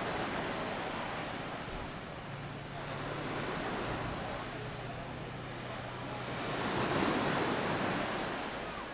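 Intercity train hauled by an E.464 electric locomotive approaching along the track: an even rushing rolling noise that swells to its loudest about seven seconds in, with a steady low hum through the middle seconds.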